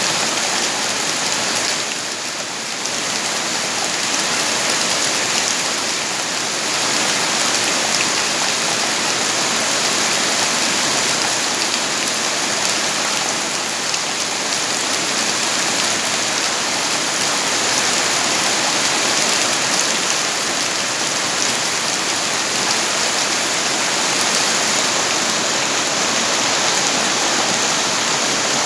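Steady rain falling, a dense, even hiss that dips slightly about two seconds in.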